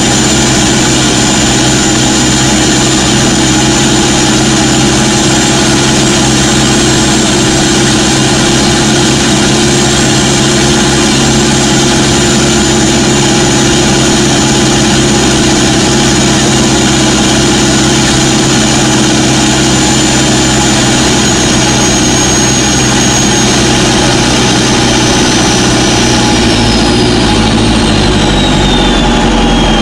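Toyota Innova's turbocharged 1KD 3.0-litre four-cylinder diesel running at a steady highway cruise, heard from inside the cabin over road and tyre noise. A thin high whine steps down and falls in pitch over the last few seconds as the engine note drops slightly.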